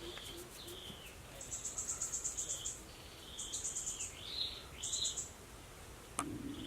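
Outdoor wildlife sounds: birds whistling short calls that fall in pitch, and an insect trilling in three bursts of rapid high pulses. About six seconds in there is a sharp click, and then a low steady hum begins.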